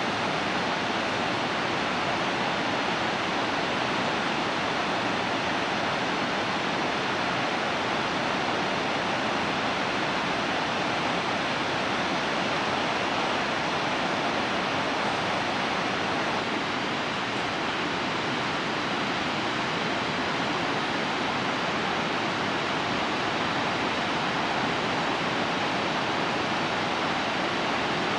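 Nardis waterfall: a steady, even rush of falling water, running low after a long drought.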